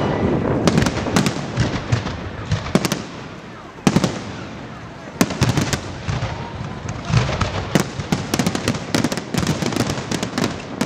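Fireworks salute: aerial shells bursting with sharp bangs, single loud reports at first, then a dense, rapid run of bangs and crackling from about two-thirds of the way in.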